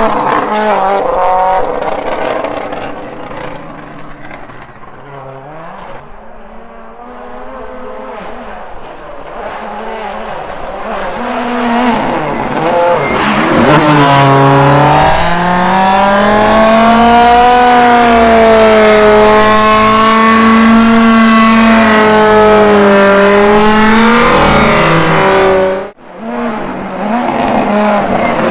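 Rally cars at full speed, their turbocharged four-cylinder engines revving hard. One car fades away in the first seconds, then another approaches and holds high revs, its pitch rising and falling with the throttle. The sound cuts off abruptly near the end and another car's engine comes in.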